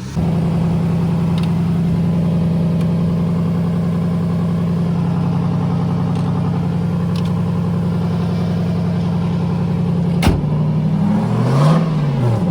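Lexus SC400 V8 running through a swapped-in GS400 muffler: it comes on abruptly and settles into a steady idle, with a sharp knock about ten seconds in and a brief rev up and back down near the end.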